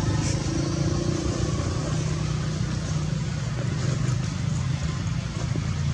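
Steady low rumble of a running vehicle engine, an even hum with no clear rise or fall.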